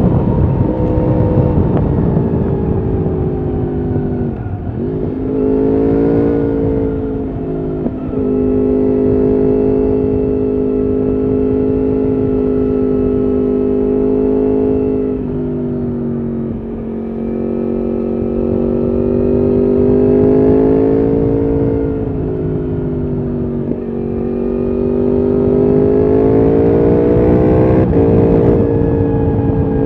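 Yamaha R1 RN22's crossplane inline-four with an Akrapovič exhaust running under way, its revs rising and falling several times, with short drops in engine note between pulls.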